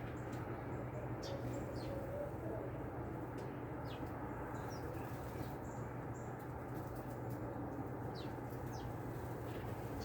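Small songbirds giving short, high, downward chirps in scattered pairs and singles, over a steady background hiss and low hum.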